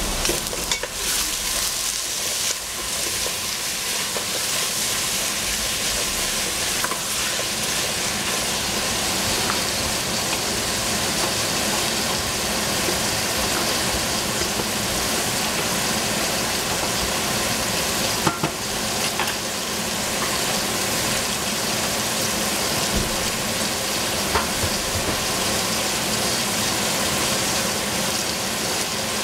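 Cut squash sizzling steadily as it fries in a stainless-steel pot, with a few light clicks.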